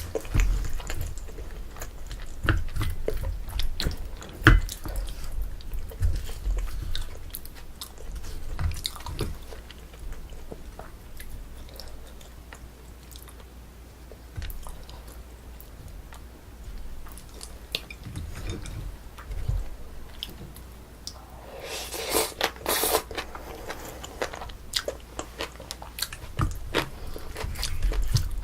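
A person eating Korean braised spicy chicken close to the microphone: steady chewing with many small wet mouth clicks and occasional bites. Near the end there is a louder, noisier sound lasting about two seconds.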